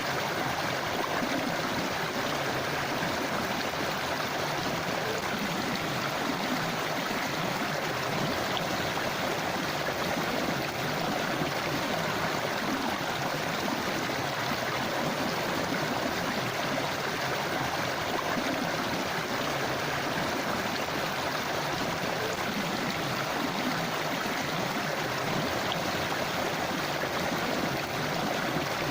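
A river flowing steadily, its water rushing and gurgling without a break.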